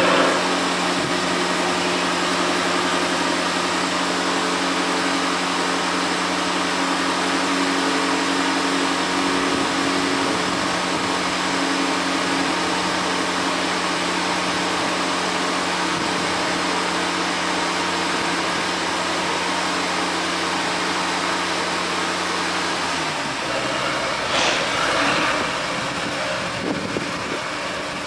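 The Jaguar F-Type P450's supercharged V8 engine running at a steady, unchanging pitch. About 23 seconds in the steady drone drops away, and a brief louder noise follows a second or so later.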